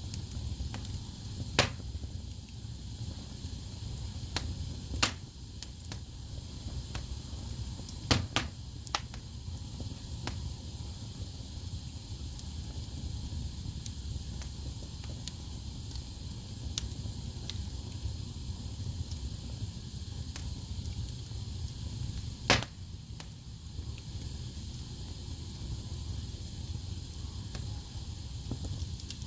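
Wood fire burning in a fireplace: a steady low rumble and hiss of flames, with scattered crackles and a handful of louder sharp pops from the logs.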